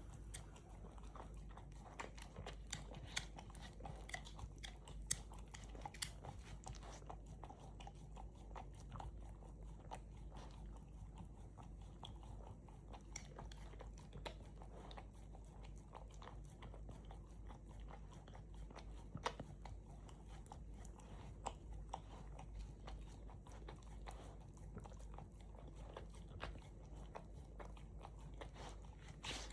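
Golden retriever puppy licking and chewing at a LickiMat lick mat: a fast, irregular run of small wet clicks and smacks.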